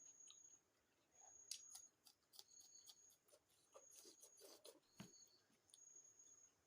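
Quiet close-miked eating sounds from a meal of chicken curry and rice: soft wet clicks and smacks of chewing, scattered and irregular, with a louder click about five seconds in.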